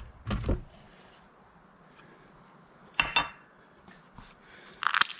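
Metal tools and parts being handled on a workbench: a couple of dull knocks near the start, a sharp metallic clink that rings briefly about three seconds in, and another short clatter near the end.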